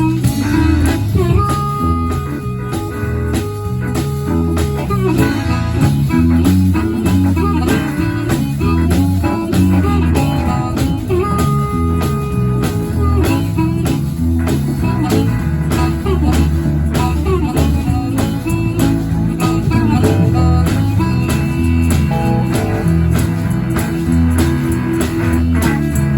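Live blues band playing, with guitar over a steady bass line; a long held note rings out twice, a few seconds each.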